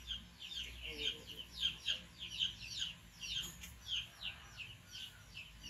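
Birds chirping: a quick run of short, high chirps that slide downward, about three a second, over a faint low hum.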